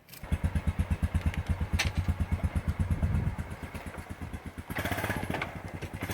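A vehicle engine starts up and runs with a fast, even putter of about ten beats a second, easing off a little after about three seconds.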